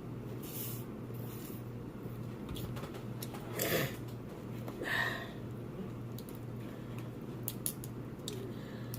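Seafood-boil food being handled and eaten: scattered small clicks and two louder crackling rustles, over a steady low hum.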